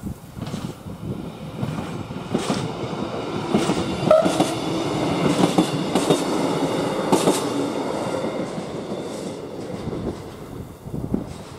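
A loco-hauled passenger train with GW Train Regio coaches passes over the level crossing, its wheels clacking over the rail joints in repeated knocks above a steady rolling rumble. It is loudest a few seconds in and fades away after about ten seconds.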